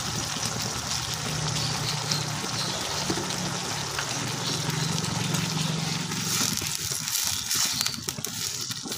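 Squid stir-fry in its sauce sizzling and bubbling in a wok on the stove. Near the end a wooden spatula stirs it, and the sizzle turns more crackly.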